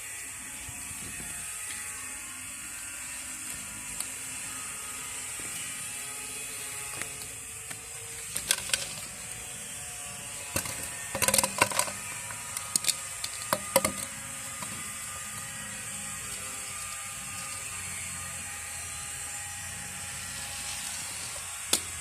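A small mechanical toy running with a steady whir, broken by sharp ratchet-like clicks: a few about a third of the way in, a cluster in the middle and a single one near the end.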